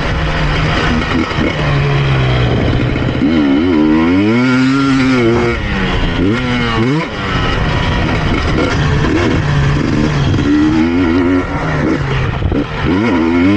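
KTM EXC 250 TPI single-cylinder two-stroke engine revving hard, its pitch climbing and falling again and again as the throttle is worked on and off, with the throttle briefly chopped about seven seconds in. Heard from the rider's helmet chin guard.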